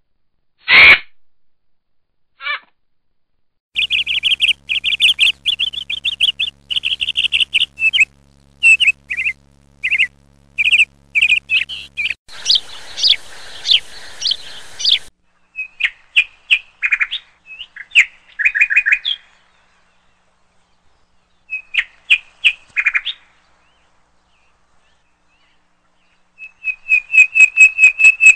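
Small birds chirping and calling in short bursts of quick, high chirps, with pauses between. A busier chattering stretch sits over a hiss about halfway in, and a fast run of chirps comes near the end.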